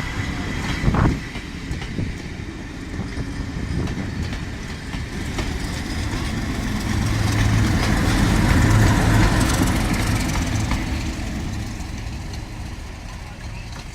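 Train moving along the track, wheels clicking over the rail joints, growing louder to a peak about two thirds of the way through and then fading. A sharp thump about a second in.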